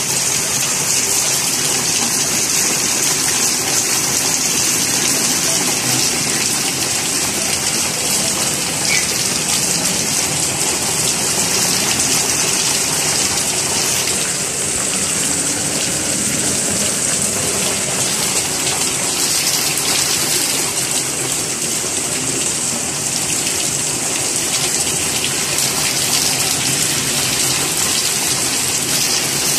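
Heavy monsoon rain pouring steadily in a dense hiss with no let-up.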